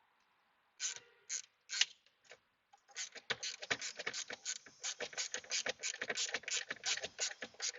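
Hand ratchet wrench clicking as a small 8 mm bolt is snugged down: a few separate clicks at first, then a quick run of clicks, about five or six a second, from about three seconds in.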